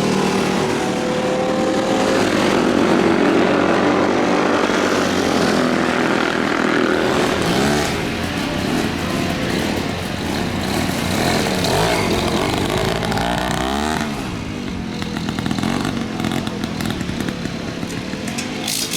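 Motorcycles passing at speed on a race circuit, several engine notes overlapping, their pitch sweeping up and down as the bikes come by and change gear.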